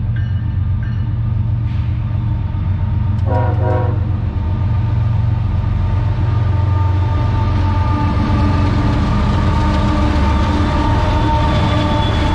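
Diesel horn of a CSX freight train's lead locomotive: a long blast ending just as the sound begins, then one short blast about three seconds in. Under it the deep, steady rumble of the train's several diesel locomotives grows a little louder as they approach.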